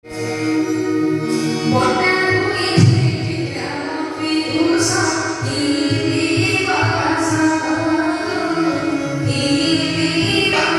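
Music with singing, played loud over a hired PA sound system.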